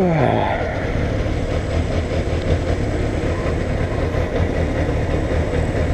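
Kawasaki ZXR400's inline-four engine idling steadily while the bike sits in traffic. At the very start its pitch falls quickly, as the revs drop back to idle.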